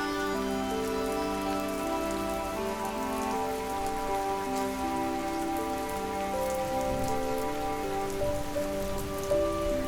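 Steady gentle rain with a soft patter of drops, mixed with slow, calm sleep music of long held notes that change every second or so.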